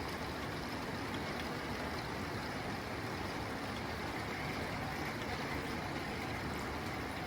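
Rain falling steadily on a tin roof, an even patter with no distinct drops or breaks.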